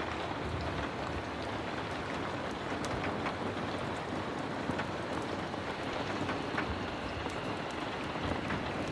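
Heavy rain falling steadily, a dense even hiss with scattered sharp clicks of drops.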